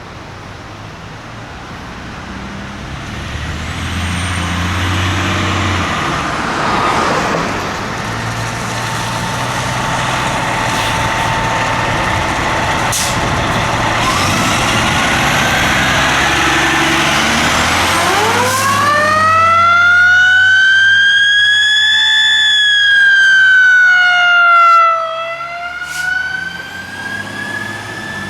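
Fire trucks approaching under engine and road rumble, with a faint siren in the background. About 18 seconds in, a Whelen Xecutor electronic siren's mechanical tone winds up loud, holds high, sags, then dips sharply and winds back up near the end.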